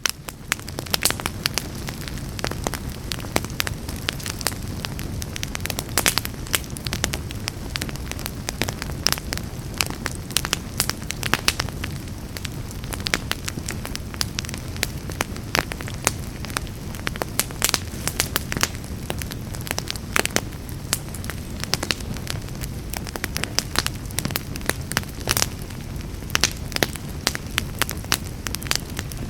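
Wood fire burning in a fireplace: dense, irregular crackling and sharp pops over a steady low rumble of flames.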